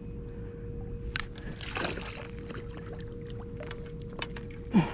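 Water splashing as a hooked channel catfish thrashes at the surface while being fought, with splashes about one and two seconds in, over a steady low hum and rumble. A short grunt from the angler near the end.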